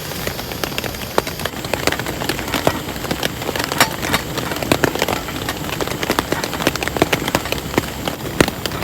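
Rain falling, with many heavy drops tapping irregularly on a surface.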